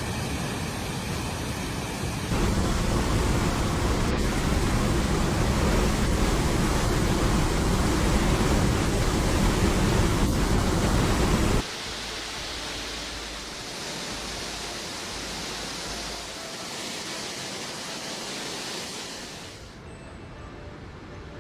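Rushing floodwater: a steady noisy rush that grows louder about two seconds in, then drops suddenly to a quieter, thinner rush a little past halfway.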